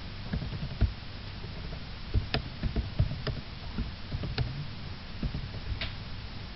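Irregular clicks and soft knocks, about a dozen, the loudest a little under a second in and around two to three seconds in, over a steady low hum.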